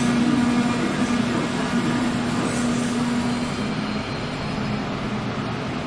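Railway station ambience: a train's steady hum and rumble at the platform, easing a little about four seconds in.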